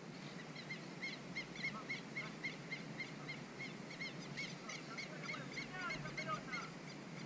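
Birds calling: a long run of short, evenly repeated chirps, about three a second. A second bird's lower chirps join about four seconds in.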